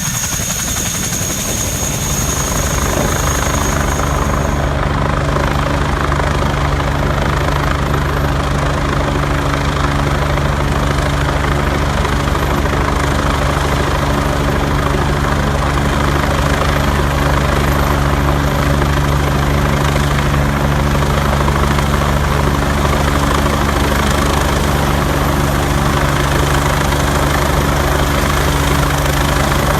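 Helicopter running close by: a loud, steady rotor and engine sound with constant low tones, growing a little louder about two seconds in. A thin high whine stops about four seconds in.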